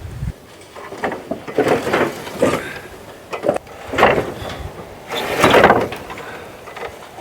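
Irregular scraping and clunking as heavy sawmill parts are shifted and set down, several separate scrapes about a second apart with a longer one near the end.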